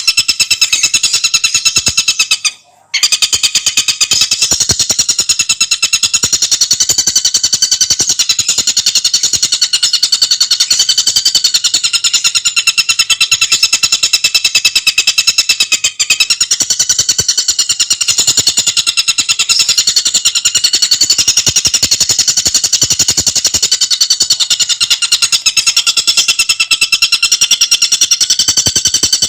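Tengkek buto bird singing a fast, dense chatter of rapidly repeated high notes, broken by a brief pause about three seconds in.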